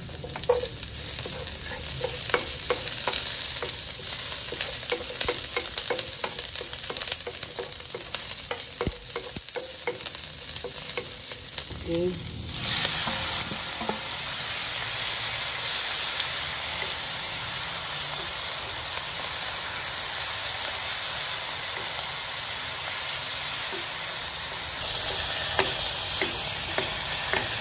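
Chopped onion and garlic sizzling in oil in a nonstick pan, with a wooden spatula tapping and scraping against it. About twelve seconds in, marinated chicken strips are tipped into the pan and the sizzle turns into a fuller, steady hiss, with light knocks of wooden spatulas tossing the chicken near the end.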